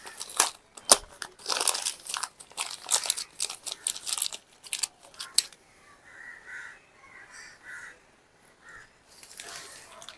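Plastic wrapping crinkling and crackling in the hands with sharp clicks for about five seconds, then only faint, brief handling sounds.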